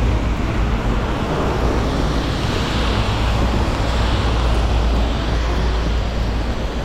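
Torrential rain pouring down in a steady, even hiss, with a low rumble beneath it.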